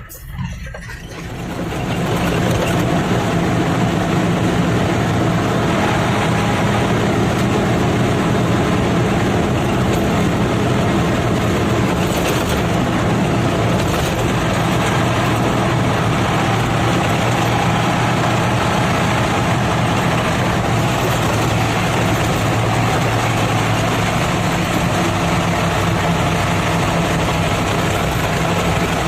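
Nissan TZA 520 dump truck's diesel engine running with a steady low drone. It swells up over the first two seconds, then holds even.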